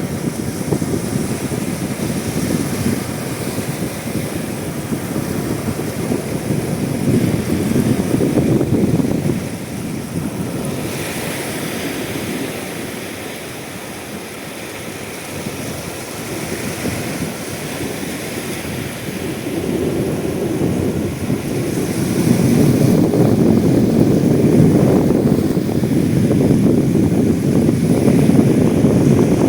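Sea waves and wind, with wind buffeting the microphone in a deep rumble. The sound eases off for a few seconds in the middle and swells again later on.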